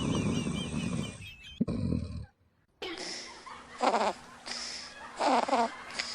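Sleeping dogs snoring. First comes a low, rasping snore. After a short break, another dog snores in a steady rhythm, a loud snore about every second and a quarter.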